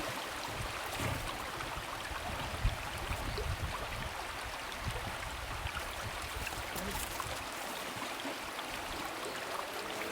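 Glacial meltwater river flowing, a steady even rush of water.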